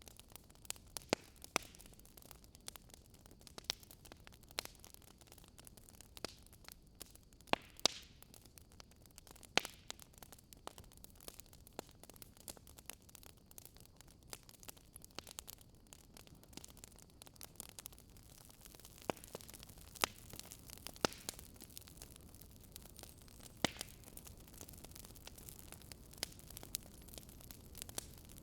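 Wood fire crackling in a fireplace: irregular sharp pops and snaps of varying loudness over a low steady hiss.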